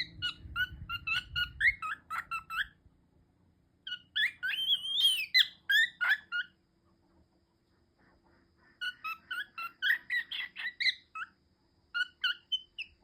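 Cockatiel chirping and whistling in quick runs of short, sliding notes, in four bouts with pauses between them.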